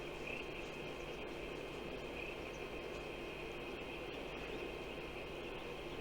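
Steady chirring of insects, with a few brighter chirps standing out, over a constant low outdoor rush.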